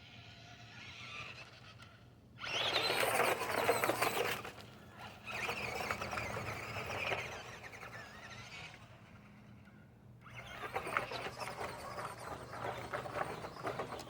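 Radio-controlled car being driven in three runs of a few seconds each: a whining motor with scrabbling tyre and ground noise, dying down between runs.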